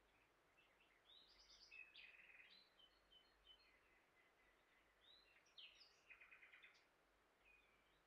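Faint songbird singing over near silence: a phrase of quick chirps and trills about a second in, and another about five seconds in.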